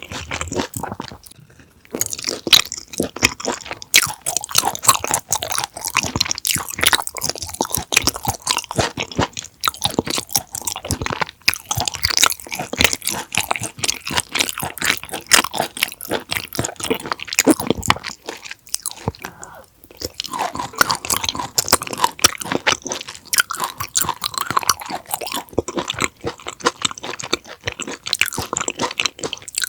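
Close-miked chewing and crunching of raw conger eel sashimi: a dense run of sharp, wet crunches with brief pauses about a second and a half in and again near twenty seconds.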